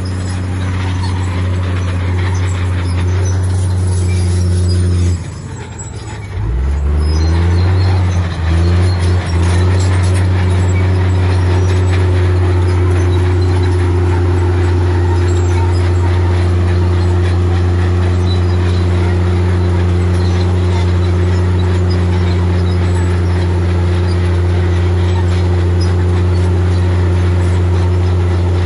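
Heavy diesel engine of an earthmoving machine running steadily with a deep drone. About five seconds in it briefly drops away, then its pitch climbs back up and holds steady again.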